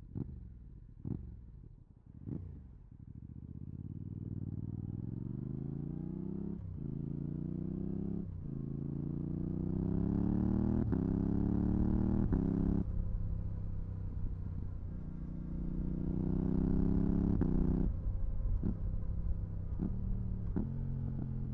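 Yamaha R7's 689 cc parallel-twin running through a full MIVV GP Pro exhaust with its dB killer fitted, accelerating through several gears: the engine note climbs in pitch and drops back at each upshift, holds steady, then climbs again before the throttle closes about 18 seconds in. A few short sharp knocks come at the start and again after the throttle closes.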